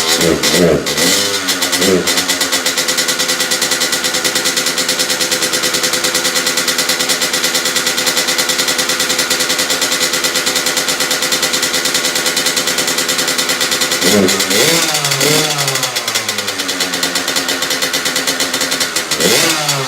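2003 Kawasaki KX85's two-stroke single-cylinder engine running just after a cold start. It is blipped up and down through its revs for the first couple of seconds, then holds a steady idle. Two more sets of rev blips come about three-quarters of the way in and again near the end.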